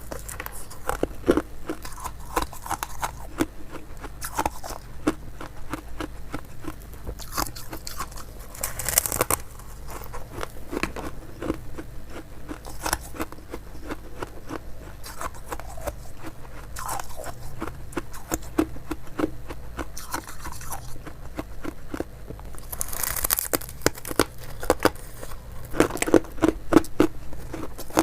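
Frosty ice being bitten and chewed close to the microphone: a continuous crackle of crunching, with sharper loud bites about nine seconds in and again near the end.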